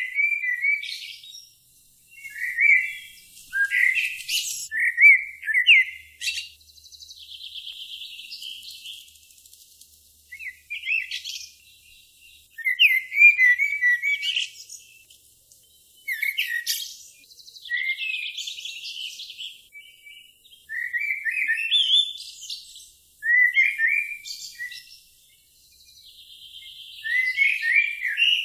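Songbird singing: phrases of quick chirps alternating with longer, fast trills, separated by short pauses.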